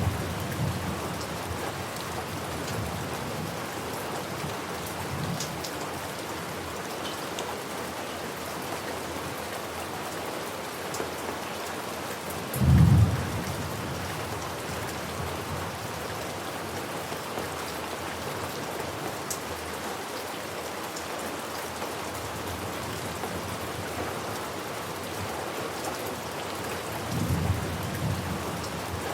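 Steady rain falling, with a short, loud low thunder rumble about halfway through and fainter distant rumbles at the start and near the end.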